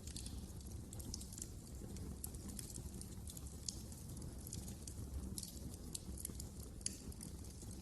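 Wood fire crackling in a fireplace: frequent small, irregular pops and snaps over a steady low rumble of the flames, with one sharper pop near the end.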